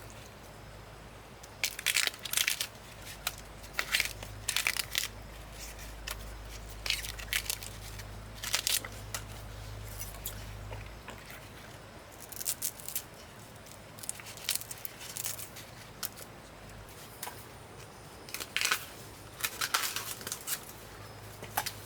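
Bamboo shoots being peeled by hand, their husks torn off in irregular bursts of tearing and crackling.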